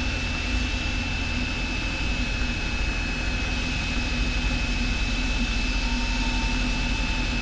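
Cessna 172's piston engine and propeller droning steadily in cruise, heard inside the cabin, with a thin steady high tone running above it.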